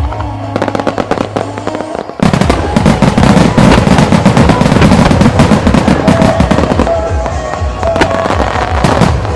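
Starmine fireworks firing and bursting in rapid succession, with crackling stars, over music played for the show. About two seconds in, a dense, louder barrage begins and keeps going.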